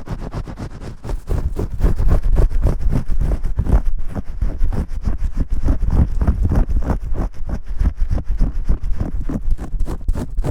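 Hands scrubbing shampoo vigorously, close to the microphone: a fast, dense run of rubbing and scratching strokes that grows louder about a second in.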